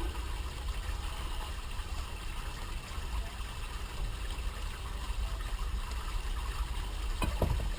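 Steady low rumble and hiss of an electric fan running, with a single click about seven seconds in.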